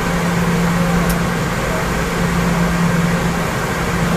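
Steady cabin noise of a Boeing 717-200 in flight: the jet engines and airflow making an even rush with a steady low hum.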